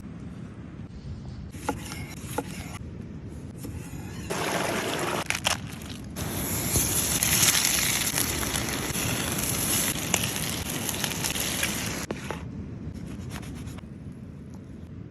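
Cooking sounds while making beef burger patties: scraping and handling noises with a few clicks, and a louder steady hiss from about four seconds in that stops suddenly near twelve seconds.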